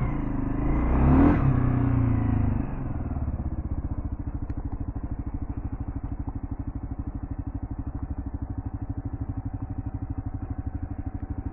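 Kawasaki KLR650's single-cylinder engine running, briefly rising in pitch and loudness about a second in, then settling at about three seconds into a steady, even idle.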